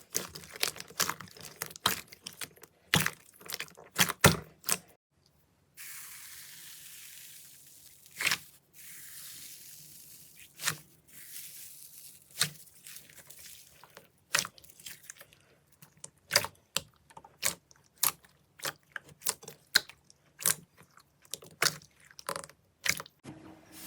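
Slime being handled, poked and squeezed: a long run of sharp, irregular pops and clicks, with a soft high hiss beneath them for several seconds in the middle.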